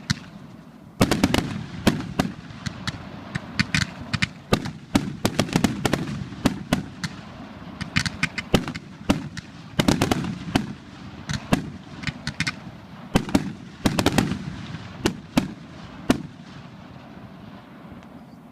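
Fireworks candles firing: a rapid, irregular string of deep launch thumps and sharp cracks, several a second, that thins out near the end.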